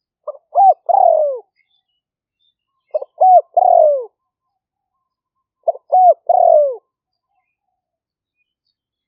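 Spotted dove cooing in three phrases, one about every two and a half seconds. Each phrase is a couple of quick clipped notes followed by a longer coo that falls in pitch. This is the 'liw feuang' calling style that Thai decoy-dove keepers prize for luring wild doves.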